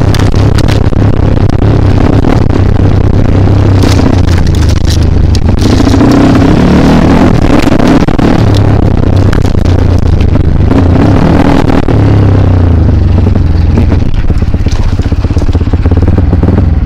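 Kawasaki KLX dirt bike's single-cylinder engine working hard on a rough trail, revving up and dropping back every few seconds as the throttle is opened and closed, with scattered knocks and rattles.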